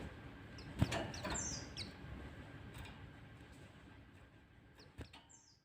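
White-eyes (pleci) giving short, high chirps and falling chip notes, mixed with a few sharp clicks, the sound fading out near the end.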